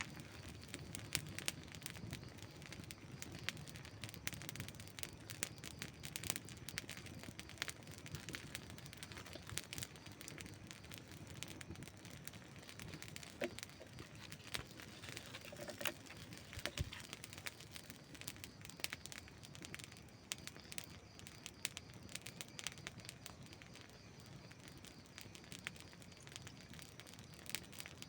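Wood campfire burning and crackling: frequent, irregular small sharp pops and snaps over a soft, steady hiss.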